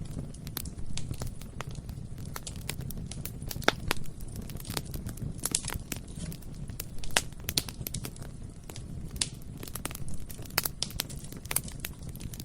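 Bonfire burning with a steady low rumble of flames, crackling irregularly with many sharp snaps and a few louder pops.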